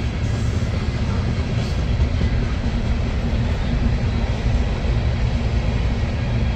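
Long freight train of grain hopper cars rolling past close by: a steady low rumble and rattle of the cars on the rails.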